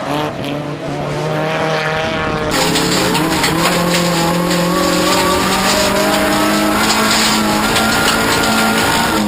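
Toyota Corolla off-road race car's engine under hard throttle, its pitch climbing steadily through one long pull in a gear, then dropping sharply near the end as the driver lifts or changes gear. A rushing noise rides over it from about two and a half seconds in.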